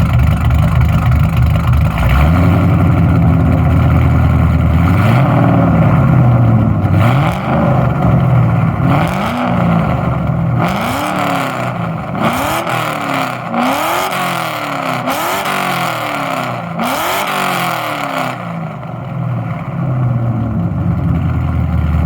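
Cammed 2005 Ford Mustang GT's 4.6-litre three-valve V8, breathing through long-tube headers and a Borla ATAK axle-back exhaust. It is idling, then revved in a series of about seven blips, each peaking a step higher than the last in 1,000 rpm increments. It then settles back to idle near the end.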